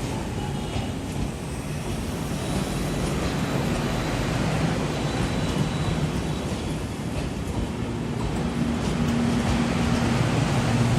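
Passenger train running along the track with a steady rumble that grows a little louder near the end. A steady low drone joins in over the last few seconds.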